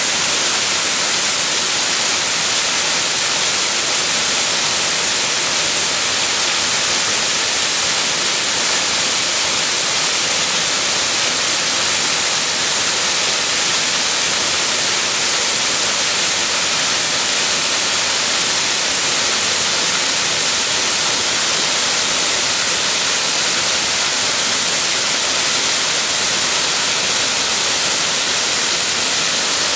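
Waterfall pouring steadily: a loud, unbroken rush of falling water, strongest in the hiss-like upper range.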